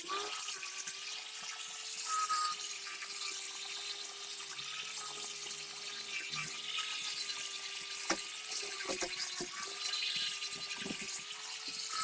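Small high-speed electric motor running steadily with a high, slightly wavering whine over a hiss, with a few sharp clicks in the second half.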